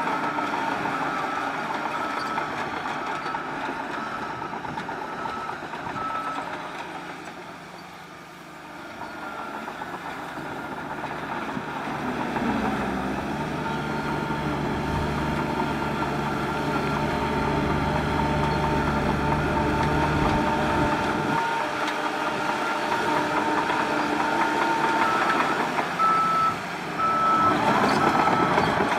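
A heavy machine's reversing alarm beeps at a regular rate over running diesel engines. The beeping breaks off after about six seconds. Partway through, a heavy diesel engine runs under load with a strong low rumble for several seconds, and the beeping comes back near the end.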